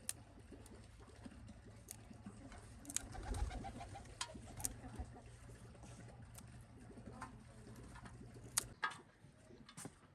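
A pigeon cooing faintly, with a few short calls in a row about three seconds in, over a low steady hum and scattered light clicks and knocks.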